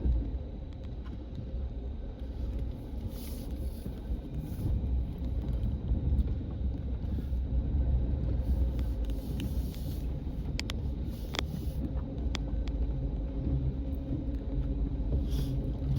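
Pickup truck driving slowly on snow, a steady low engine and road rumble, with a few short clicks about eleven seconds in.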